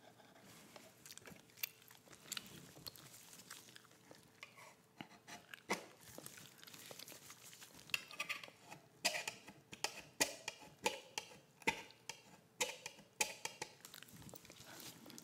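Close-miked chewing and mouth sounds: short wet clicks and smacks, sparse at first and coming thicker and louder from about halfway through.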